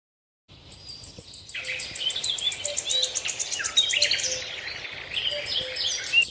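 Birds chirping and calling in quick, varied notes over insects trilling in fast, even high pulses. The insect pulsing starts about half a second in, and the bird calls join about a second later.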